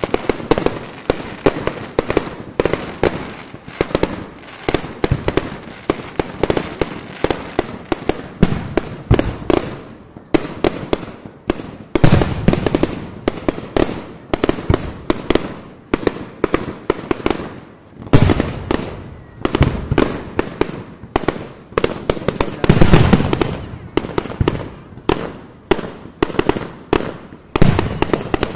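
Aerial fireworks going off in a continuous barrage of sharp bangs, several a second, with louder volleys at intervals, the loudest about twenty-three seconds in.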